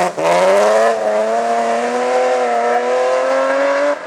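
Rally car engine running hard under full throttle, its pitch rising steadily through a gear, with a brief lift just after the start and another near the end.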